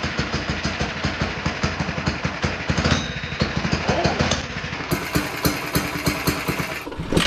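Small single-cylinder four-stroke mini bike engine idling with a fast, even putter.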